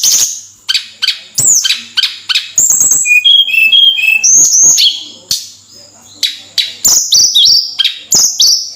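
Tledekan gunung songbird singing a loud, rapid, varied song of high whistled notes and sharp chirps, many sliding down in pitch, with a short lull around the middle.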